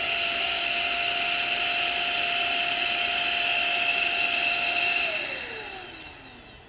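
HŌM cordless electric air duster and mini vacuum running with a steady high whine and rush of air, then switched off about five seconds in, its motor winding down with a falling pitch.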